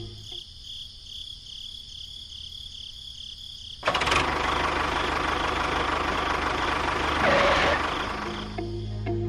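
A small engine runs quietly with a low rhythmic pulse. About four seconds in it suddenly gets much louder and runs hard and steady, swelling briefly near the end before easing back.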